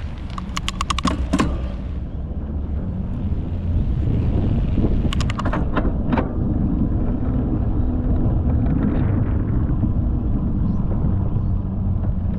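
Bicycle riding fast downhill: wind buffeting the microphone over a steady rumble of tyres on the path. Two short runs of rapid clicking come near the start and about five seconds in.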